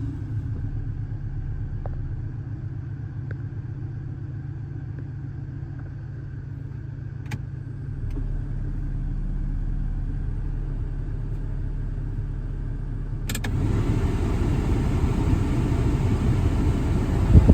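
1996 Toyota Tacoma's engine idling steadily just after starting. About thirteen seconds in, a click is followed by a louder rushing noise laid over the idle.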